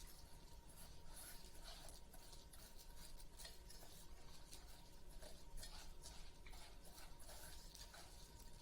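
Faint, irregular clicking and scraping of chicken wings being stirred and tossed in a sticky honey and brown sugar sauce.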